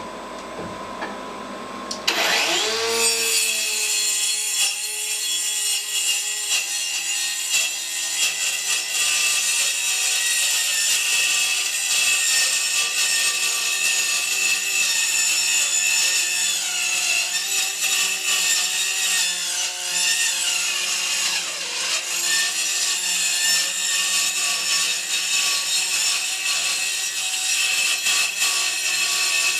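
Electric power saw starting up about two seconds in, its motor whine rising, then running steadily as it cuts, most likely through wood.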